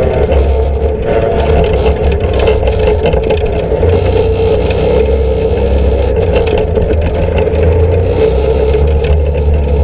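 Can-Am Outlander 800 ATV running at a steady low speed over a rough trail: a continuous engine drone with rattling and scraping from the machine and the ground.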